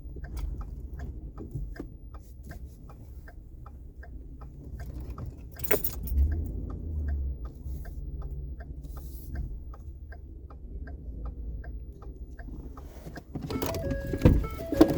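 Steady, even ticking a little over twice a second, like a vehicle's indicator flasher, over a low engine-like rumble. There is one knock about six seconds in, and near the end a burst of louder metallic clattering and knocks.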